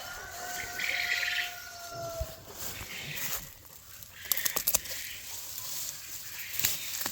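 Penned poultry: one long, level call through the first two seconds or so, then a quick run of sharp clatters a little past halfway.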